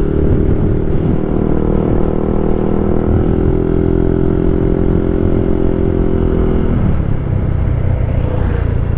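Yamaha 155 cc scooter engine running at a steady, held speed under a low wind rumble. The engine note drops away about seven seconds in.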